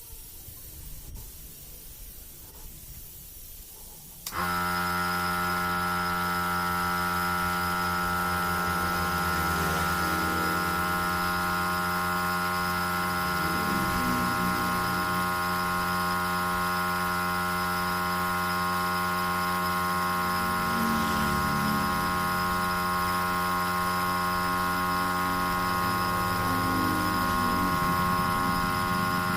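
A steady machine hum with several fixed pitches, like an electric motor running, that starts suddenly about four seconds in after a faint hiss and holds steady.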